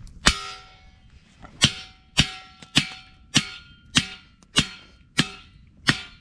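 Steel post of a homemade swivel camp grill being hammered into the ground: nine sharp metallic clangs, each ringing briefly, at a steady pace of a bit under two a second. The post is bending as it goes in, which the man puts down to hitting a rock.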